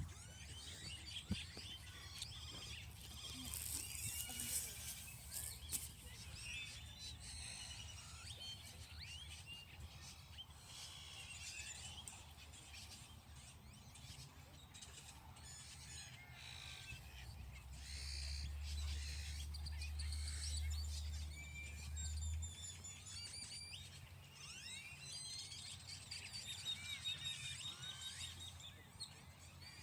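Several wild birds chirping and singing, many short overlapping calls throughout. A low rumble swells for about five seconds just past the middle.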